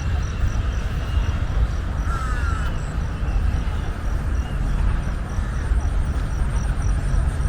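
Outdoor park ambience: a steady low rumble of distant traffic, with a few short bird calls, one harsher call about two seconds in, over an even high-pitched ticking at about three beats a second.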